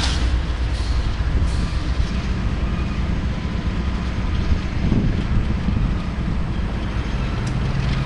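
BNSF freight train rolling past, a steady low rumble of wheels and railcars on the track.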